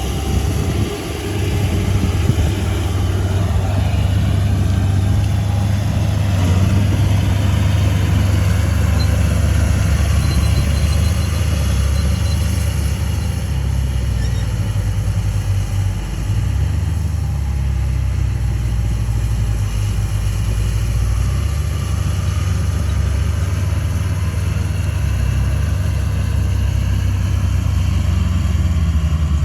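Heavy machine's diesel engine running steadily, with a brief dip in level about halfway through.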